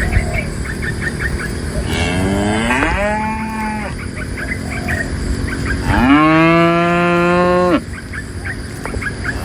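Cattle mooing twice. The first moo comes about two seconds in, rising in pitch and then holding. The second, longer and louder moo comes about six seconds in and cuts off suddenly. Faint quick chirps run underneath.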